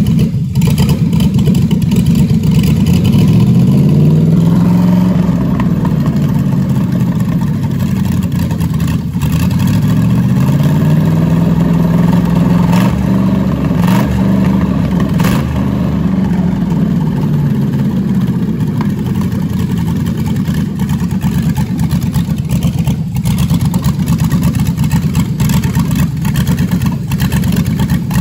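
A 6.0-litre L76 V8 from a 2009 Pontiac G8 GT running steadily. It is revved up twice, about three and ten seconds in, and each time the pitch rises and then settles back to idle.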